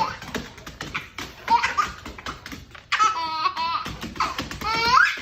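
A baby laughing in high, squealing bursts, one about three seconds in and a rising one near the end, with scattered taps and clatter before them.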